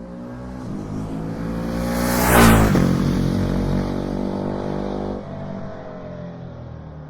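Ducati Hypermotard 950's 937 cc L-twin engine running through its standard exhaust, swelling to a loud peak about two and a half seconds in, then easing off and dropping further about five seconds in.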